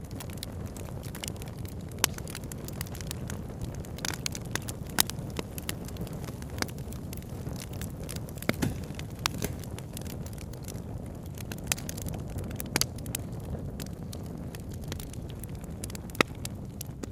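Wood campfire crackling, with irregular sharp pops, a few of them louder, over a steady low rushing background.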